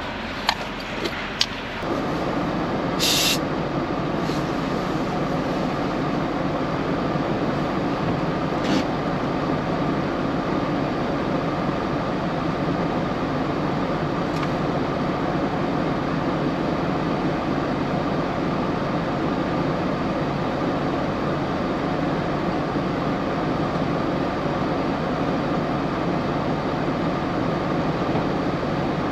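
Steady drone of a semi-truck running, with a few clicks in the first two seconds and a short hiss about three seconds in.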